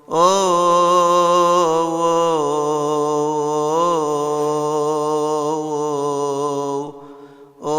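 Solo male voice chanting a Coptic Orthodox hymn: one long, drawn-out melismatic phrase whose pitch wavers and turns through ornaments. It breaks off about seven seconds in for a breath before the next phrase starts.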